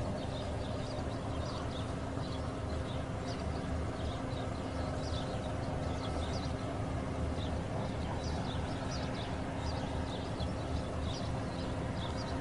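A car engine idling steadily, a low hum with a couple of held tones, while short high chirps come and go over it.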